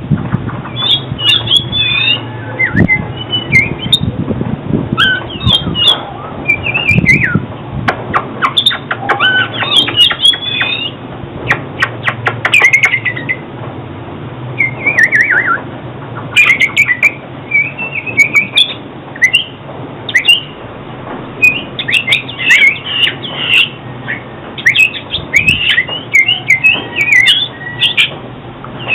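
Oriental magpie-robin singing: a varied run of short whistled notes, chirps and sliding phrases in bursts, over a steady low hum.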